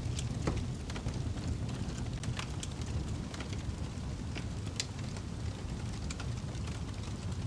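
Wood fire crackling in a fireplace: scattered sharp pops and snaps at irregular moments over a steady low rumble of the burning fire.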